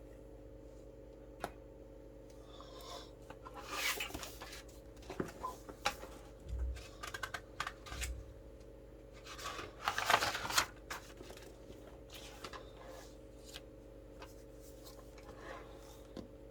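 Paper rustling and handling at a desk, with the loudest rustles about four and ten seconds in, scattered light taps and two soft low thumps, over a steady low electrical hum.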